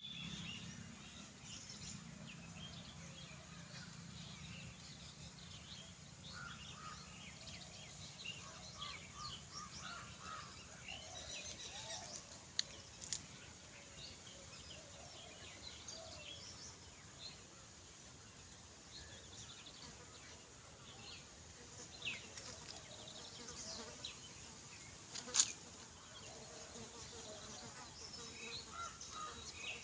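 Faint outdoor ambience with insects buzzing and many scattered short chirps, broken by a few sharp clicks, the loudest near the end.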